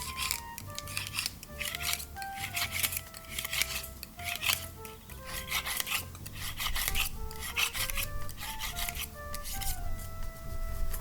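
Barbecue brush scrubbing the metal grill net of a fire pit in repeated back-and-forth strokes, roughly one a second, over background music.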